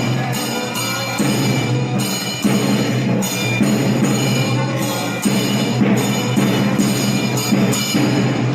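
Ritual temple drumming of Kerala: chenda drums beaten continuously, with ringing hand cymbals (elathalam) over them.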